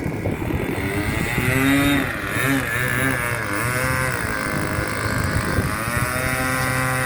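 OS .46 two-stroke glow-fuel engine of an RC model airplane running, its pitch rising and falling with the throttle for a few seconds in the middle, then holding steady.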